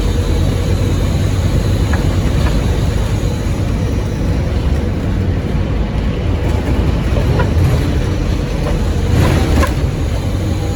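On-board sound of a Scania OmniCity bus under way: its Scania N230UD five-cylinder diesel running steadily with a heavy low rumble and road noise. A short burst of hiss comes about nine seconds in.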